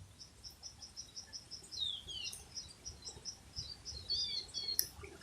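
A bird calling: a rapid, even series of short high notes, about five a second, with a few downward-slurred notes mixed in.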